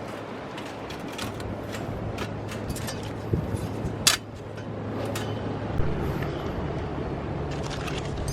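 Wood fire burning with a steady low rumble and irregular crackles and pops, the sharpest crack about four seconds in.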